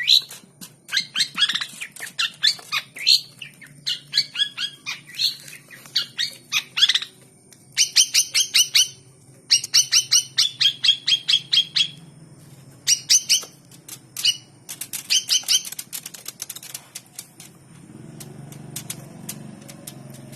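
Long-tailed shrike (cendet) calling in fast series of sharp, harsh notes, in bursts with short pauses between them, until near the end. It has been provoked by hand and is in an aggressive, fighting mood.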